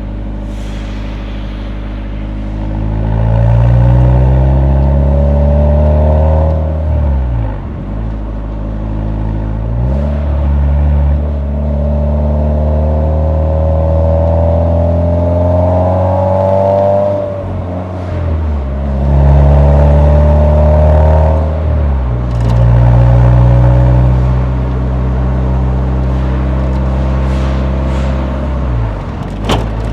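Nissan 180SX's SR20 four-cylinder engine heard through its muffler while driving. The engine pulls up through the revs several times, with a sharp drop in pitch at each gear change, then runs at fairly steady revs for a while before another shift near the end.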